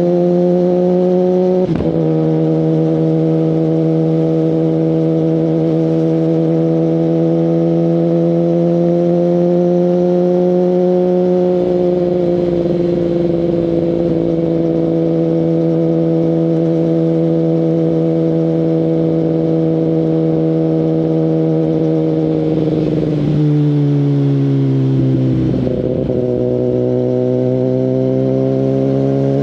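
2019 Kawasaki Ninja ZX-10RR's inline-four engine through an Akrapovic full exhaust system, running at steady revs while riding. There is a brief break about two seconds in; about three-quarters of the way through the pitch drops, then climbs again near the end.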